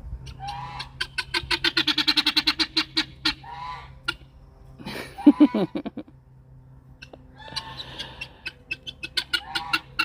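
A loud farm bird fussing with rapid, repeated harsh calls, several notes a second, in two long runs, with a single louder, lower call about five seconds in.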